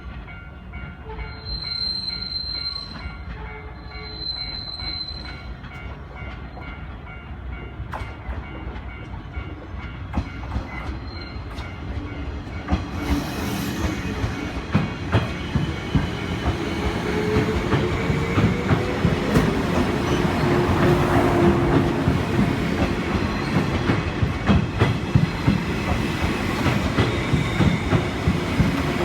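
Series 185 electric multiple-unit train approaching and passing over a level crossing, getting louder from about halfway, its wheels clattering rhythmically over the rail joints. A horn sounds along the way.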